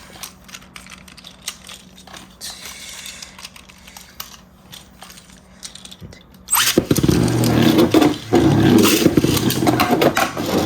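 Light plastic clicks and handling rattles, then about six and a half seconds in a sudden loud start: Beyblade Burst tops Super Hyperion and King Helios are launched into a plastic stadium and spin, whirring and scraping as they clash.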